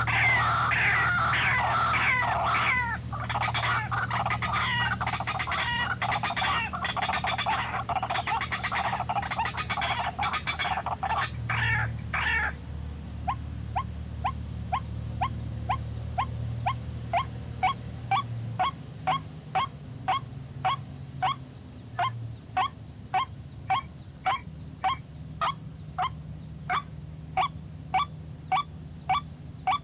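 White-breasted waterhen calls: a dense, loud chorus of harsh calls that breaks off suddenly about twelve seconds in, then a steady run of short repeated notes, about two a second. A low steady hum sits underneath.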